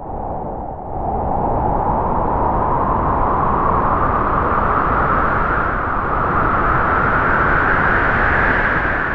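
A loud, steady rushing noise that starts abruptly and rises slowly in pitch.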